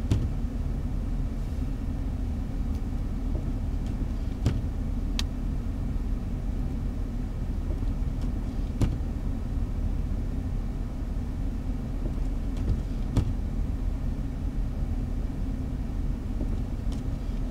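Car driving, heard from inside the cabin: a steady low rumble of road and engine noise, with a few sharp clicks scattered through it.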